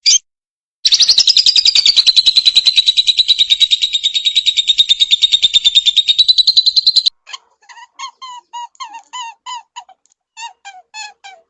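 Bird calls: a short chirp, then a fast trill lasting about six seconds, followed by a series of short, separate descending calls.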